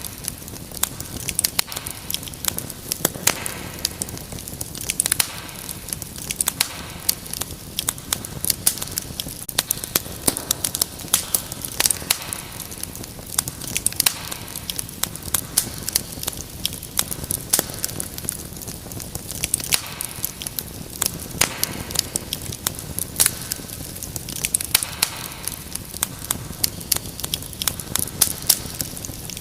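Wood fire in a fireplace crackling steadily, with many quick irregular pops and snaps over a low rushing hiss.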